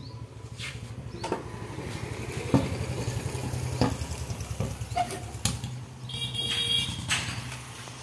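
Bajaj Pulsar NS motorcycle's single-cylinder engine idling steadily, with several sharp knocks and clanks over it.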